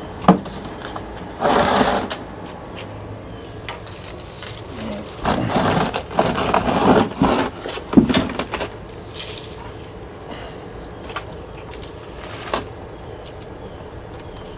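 Metal parts of a ceiling fan clinking and scraping as it is taken apart for scrap. There is a sharp click right at the start, bursts of scraping and rattling at about 1.5 s and again from about 5 to 7.5 s, a sharp knock around 8 s, and a few light clicks after that.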